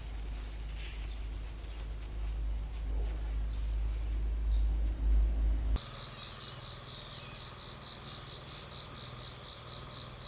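Insects calling in the countryside: a steady high-pitched whine over a low rumble, then after a sudden change a little over halfway, a fast regular pulsing chirp with other steady high tones.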